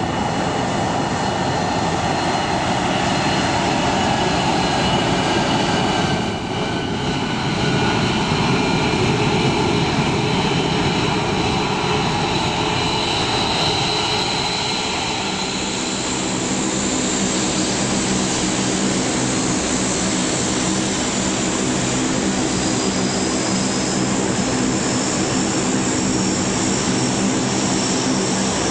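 Propeller engines of a Lockheed EC-121K Super Constellation running steadily, with a brief dip about six seconds in and a clearer, even engine hum from about halfway through.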